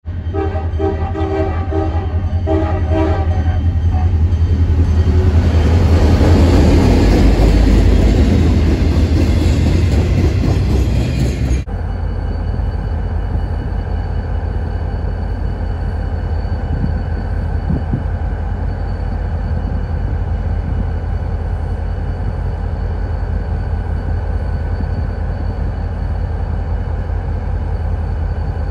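A diesel freight locomotive sounding its air horn in several short blasts as it approaches, then a loud rolling rumble that swells as the train comes close. After a sudden cut, two Wisconsin & Southern diesel locomotives run along steadily, with a deep engine rumble and a faint high whine.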